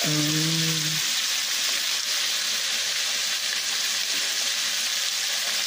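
Saltfish, onions and sweet peppers sizzling steadily in hot oil in a metal wok. A brief hummed tone sounds in the first second.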